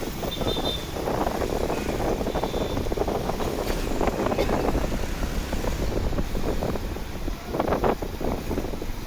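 Wind buffeting the microphone on a moving motorcycle, over the steady noise of the motorcycle and surrounding street traffic.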